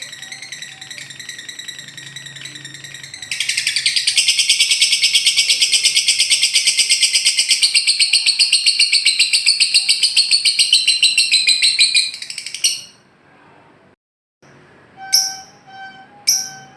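Lovebird ngekek: a quieter high trill that breaks into a long, loud, very rapid chattering trill lasting about nine seconds, then stops. After a short break come three sharp chirps near the end.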